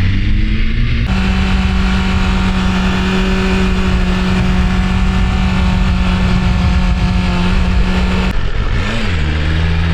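BMW S1000RR inline-four motorcycle engine pulling up through the revs, then a gear change about a second in drops it to a steady cruising note with wind rush. Near the end the revs briefly rise and fall and settle a little lower.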